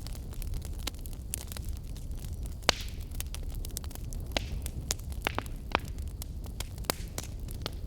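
Wood fire burning with a steady low rumble and irregular sharp crackles and pops, the loudest pop about two and a half seconds in.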